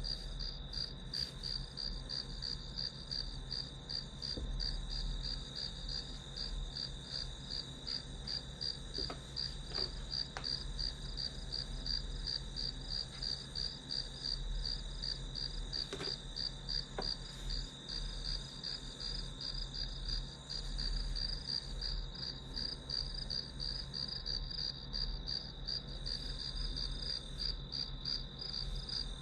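Crickets chirping in a steady, even stream of rapid high pulses. A few faint ticks sound now and then.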